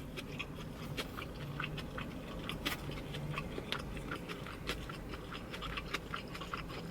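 Close-miked chewing: irregular wet mouth clicks and smacks of someone chewing a mouthful of chicken biryani.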